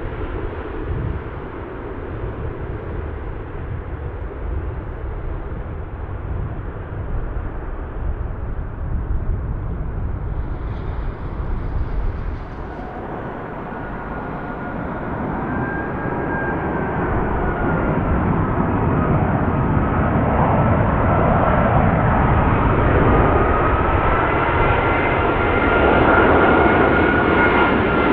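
Jet airliner on approach to land. Its engine noise grows steadily louder from about halfway through, with a high wavering whine over a low rumble.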